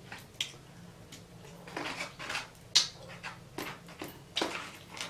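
Close-miked eating: chewing and mouth sounds, a string of short, irregular smacks and clicks, the sharpest about three seconds in.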